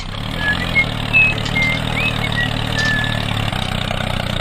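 A mini tractor's small motor running steadily with a low, even hum, with a few short, high chirps over it.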